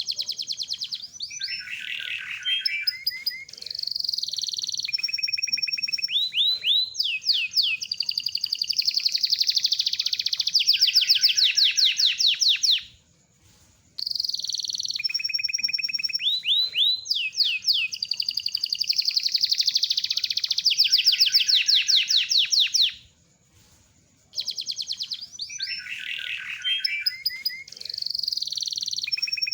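Domestic canary singing a long, continuous song of fast, high trills and drawn-out rolls, with two brief pauses, about 13 and 23 seconds in.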